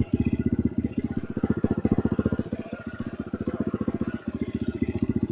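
Enduro motorcycle engine idling with a steady, even pulse.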